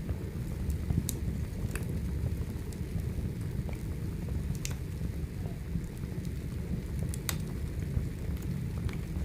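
Wood fire burning: a steady low rumble with scattered sharp crackles and pops, roughly one a second.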